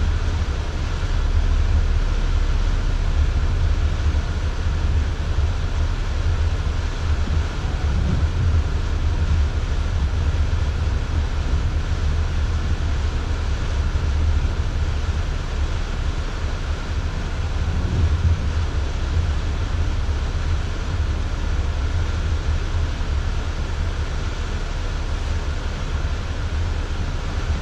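Steady low rumble of a four-wheel-drive vehicle driving, heard from inside the cab: engine and road noise with no change in pace.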